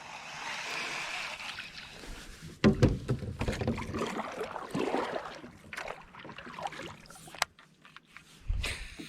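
Sounds of a kayak on the water: a steady hiss of moving water, then a cluster of knocks and thuds against the hull about two and a half seconds in, with a few sharp clicks and thumps later.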